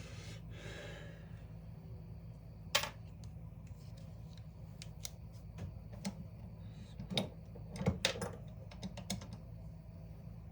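Scattered clicks and light clatter from hand tools and small metal parts being handled, with one sharp snap about three seconds in and a cluster of clicks near the end, over a steady low hum.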